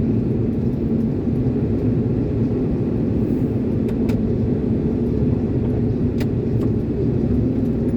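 Iveco concrete mixer lorry's diesel engine running steadily at road speed, with a low drone and road rumble heard inside the cab.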